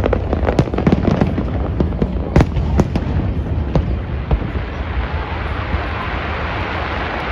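Fireworks bursting in rapid succession, a dense run of sharp bangs and crackles over a continuous low rumble. The bangs thin out after about four seconds, leaving a steadier rumble and crowd noise.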